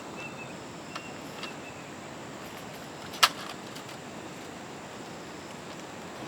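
Steady background noise with a few light clicks early on and one sharp knock about three seconds in.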